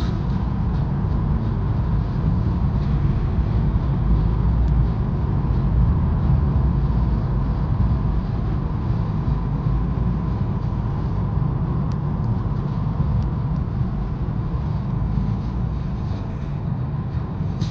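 2022 Mercedes-AMG car driving on a wet road at night, a steady low rumble of engine and tyres with a faint thin steady whine above it.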